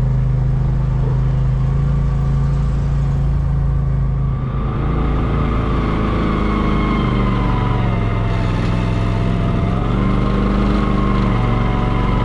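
Vehicle engine running while driving, its pitch shifting a few times as the revs change, with a fainter whine gliding above it.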